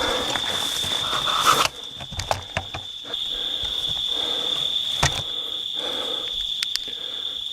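Steady high-pitched insect trill, cricket-like, running without a break. Rustling near the start and a few sharp clicks sound over it.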